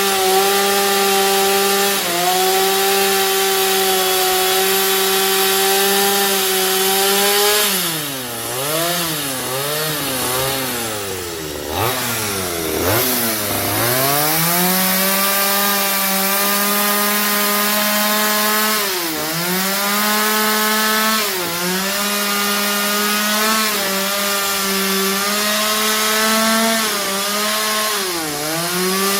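A chainsaw running at a steady high speed and cutting into timber rafters, its pitch sagging as the chain bites into the wood, deepest and most uneven from about 8 to 14 seconds in, with short dips again near the end.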